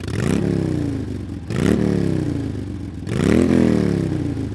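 Motorcycle engine revved three times, each rev climbing quickly in pitch and dying away slowly, about a second and a half apart.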